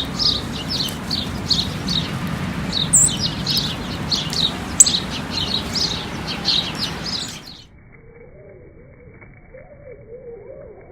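Sparrows chirping rapidly, about three chirps a second, over a steady low background noise. About seven and a half seconds in this cuts off, giving way to quieter, deep, wavering bird calls slowed down eight times.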